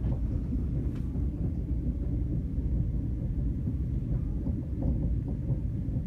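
Steady low rumble of a moving passenger train, heard inside the passenger car as it runs past the station platform, with a few faint clicks in the second half.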